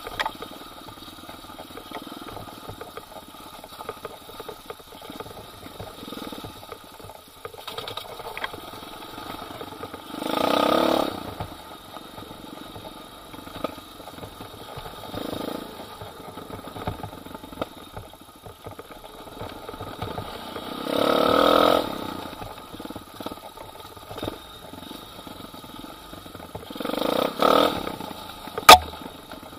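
Pit bike engine running while being ridden, rising in three swells of about a second each as the throttle opens. A sharp knock near the end is the loudest sound.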